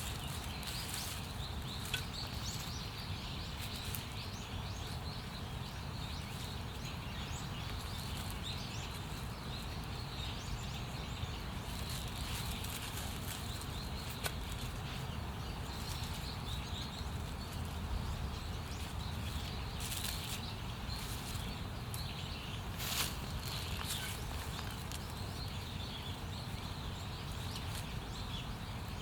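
Outdoor woodland ambience: a steady low rumble with faint bird chirps and scattered rustling clicks, the sharpest about 20 and 23 seconds in.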